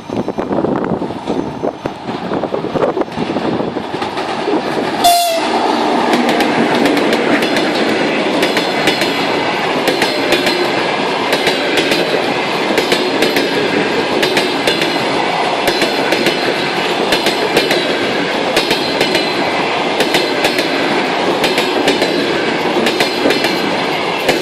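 EP2K electric locomotive and its express passenger train passing at speed. The sound is loudest about five seconds in, then the coaches roll by with a steady rumble and rapid clicks of wheels over rail joints.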